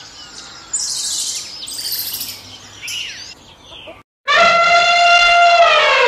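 Elephant trumpeting: one long, loud, pitched call starting about four seconds in, holding steady and then falling in pitch near the end. Before it, high chirping of small birds.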